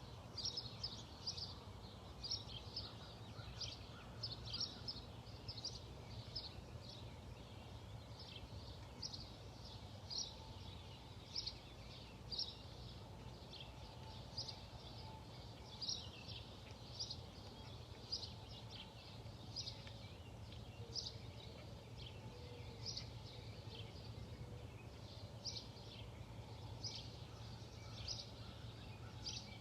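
Bird giving short, high chirps over and over, about one or two a second, over a steady low hum.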